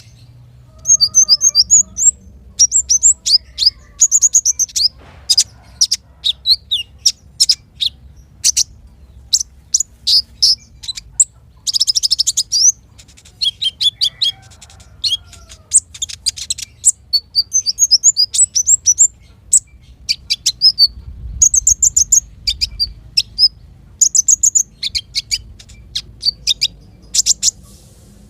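Small songbirds chirping in rapid volleys of short, sharp, high-pitched chirps and quick falling notes, separated by brief gaps. This is a masteran, a bird-song tutoring recording.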